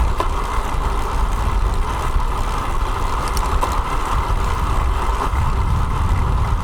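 Steady wind rumble on a bicycle-mounted action camera's microphone while riding, with road and traffic noise.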